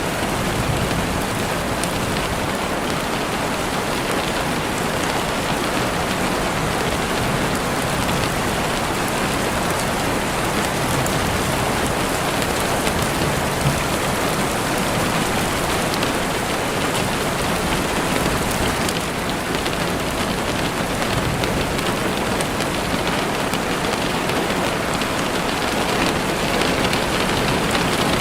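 Heavy rain falling steadily, a dense even hiss with scattered fine drop taps, as of rain on a window.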